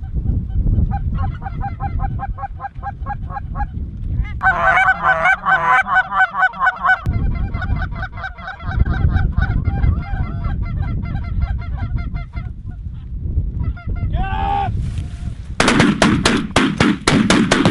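Geese honking, a rapid overlapping chorus of calls that is densest a few seconds in and thins out, then a quick volley of gunshots near the end. Wind rumbles on the microphone throughout.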